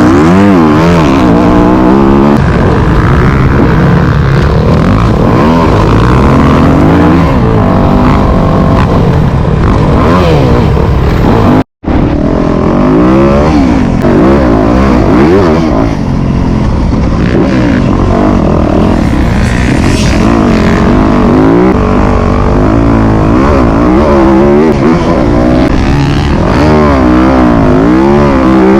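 Motocross dirt bike engine being ridden hard, its pitch rising and falling again and again as the throttle opens and closes through the gears. It is loud throughout, with a brief cut to silence about twelve seconds in.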